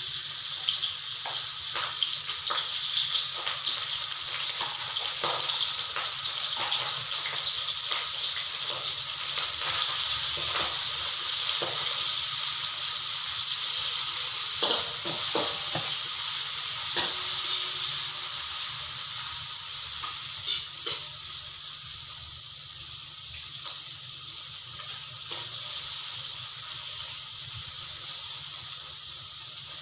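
Squid pieces sizzling in hot oil in a metal wok, with a metal spatula scraping and tapping the pan as they are stirred. The sizzle eases somewhat after about twenty seconds.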